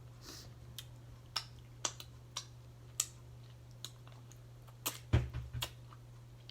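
Scattered sharp clicks and taps, about a dozen, irregularly spaced, over a steady low electrical hum, with a soft thump and a quick cluster of clicks about five seconds in.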